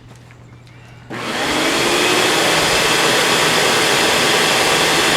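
Hoover Dimension Supreme vacuum cleaner switched on about a second in. Its motor spins up with a rising whine, then settles into a steady, loud rush of air.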